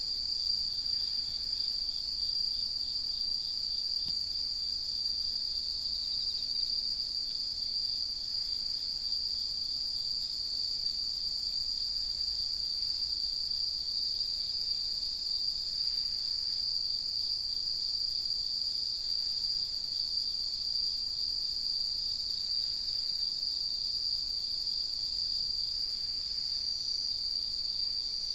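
A chorus of autumn night insects singing: a steady, unbroken high-pitched trill, with a fainter higher trill and occasional soft chirps over it.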